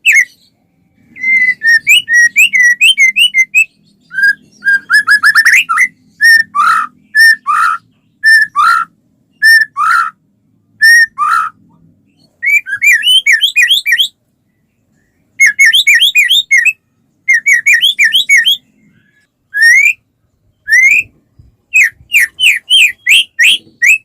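White-rumped shama in full song (gacor): loud phrases of rapid, repeated whistled notes, some sweeping up and some dropping, broken by short pauses.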